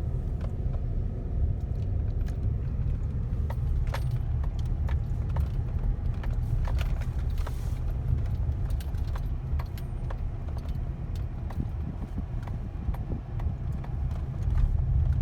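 Truck driving slowly, a steady low rumble from engine and road, with scattered light clicks and ticks throughout.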